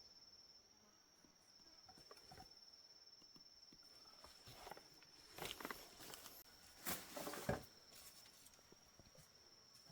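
Faint rustling and light knocks, clustered about five to seven and a half seconds in, over a steady high insect trill.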